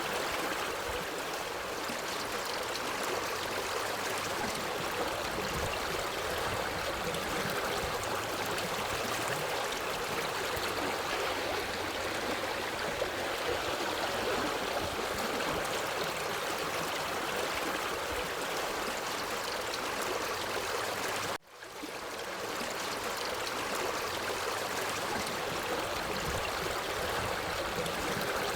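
Forest stream flowing over rocks, a steady rushing and trickling of water. About three-quarters of the way through it cuts out for a split second and fades back in.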